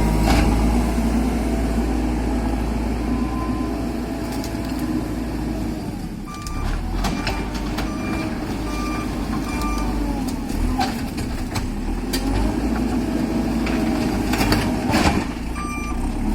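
Heavy diesel machinery running steadily, with a reversing alarm beeping about once a second from about halfway through, and a few metallic knocks.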